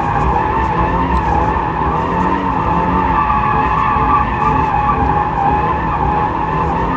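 2024 Toyota GR86's tyres squealing continuously in a sustained drift, over the steady drone of its 2.4-litre flat-four engine under power.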